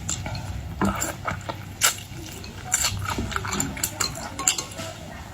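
Close-miked eating of boiled seafood: wet mouth smacking and sucking, with irregular sharp clicks of shells and utensils.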